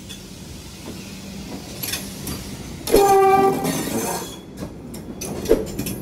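Vande Bharat electric train set running past close by, its wheels rumbling on the track. One short horn blast about three seconds in is the loudest sound. A run of sharp wheel clicks follows near the end.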